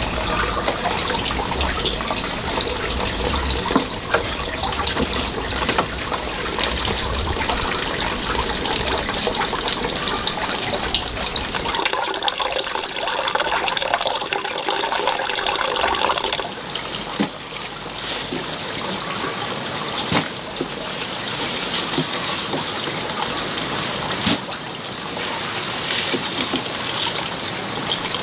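Running water trickling steadily, with scattered light clicks and knocks.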